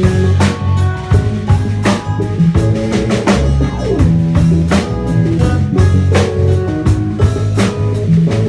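Live rock band playing an instrumental passage of a song: drum kit keeping a steady beat with kick and snare, under bass and electric guitar.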